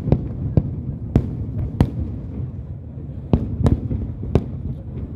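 Aerial fireworks shells bursting: about seven sharp bangs at irregular intervals over a continuous low rumble.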